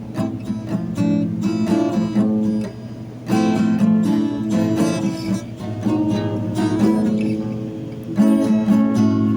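Acoustic guitar being strummed and picked through chords, with a short pause about three seconds in before the playing starts again.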